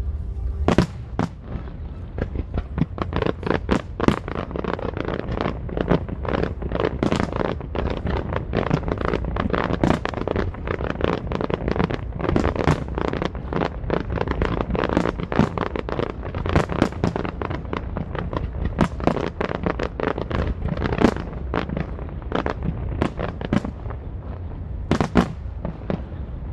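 Aerial fireworks barrage: a rapid, continuous string of shell bursts and crackling reports, several a second, with louder booms every few seconds.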